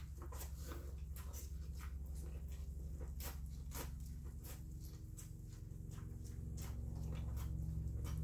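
Biting and chewing a boiled corn cob close to the microphone: an irregular run of short mouth clicks and smacks. A steady low hum runs underneath.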